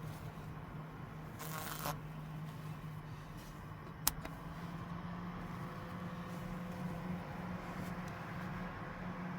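A steady low hum, like a small motor running, with a short rustle about a second and a half in and a single sharp click about 4 seconds in.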